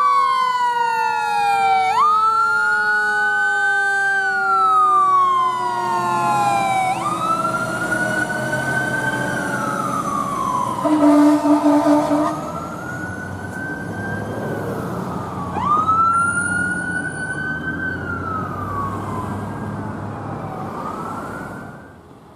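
Fire truck responding with its electronic siren wailing, rising and falling about every four to five seconds, while a second, lower siren tone slides slowly downward over the first few seconds. About eleven seconds in, the air horns give a brief pulsing blast, the loudest sound here.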